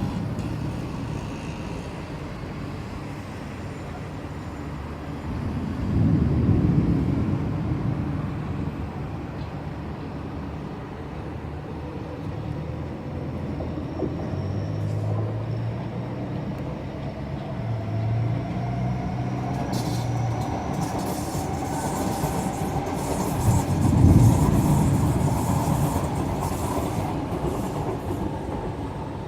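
Steady vehicle rumble with a slowly rising mechanical whine through the middle and two louder swells, about six seconds in and again near the end, with a patch of quick clicks in the last third.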